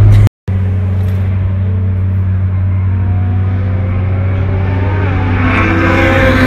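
A car accelerating on a race track, its engine note climbing steadily in pitch and getting louder toward the end, over a steady low drone.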